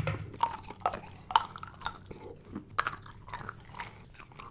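A person chewing chocolate close to the microphone, with irregular crunches and mouth clicks several times a second.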